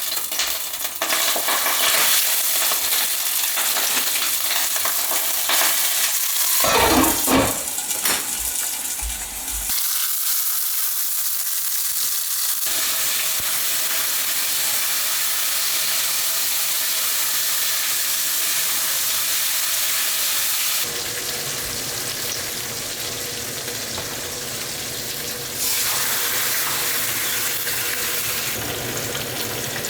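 Food sizzling as it fries in a pan, with occasional stirring, in several takes that cut abruptly from one to the next.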